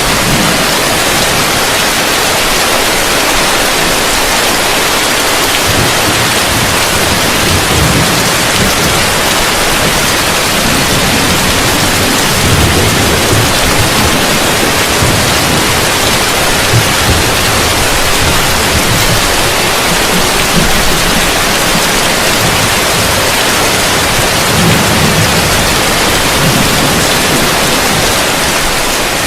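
Heavy rain falling on a roof as a steady, dense hiss. From about six seconds in, a low rumble swells and fades several times beneath it.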